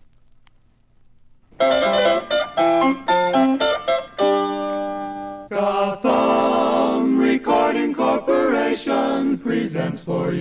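About a second and a half of faint hum, then a jazzy 1950s advertising jingle: a vocal group singing in close harmony over keyboard backing, short punchy chords, one held chord, then a sung phrase.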